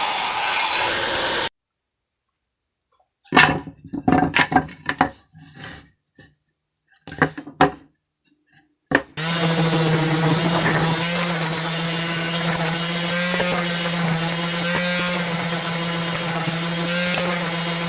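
A power tool working wood that stops suddenly, then a series of sharp knocks and taps, then a motor that starts about nine seconds in and runs steadily with a low hum.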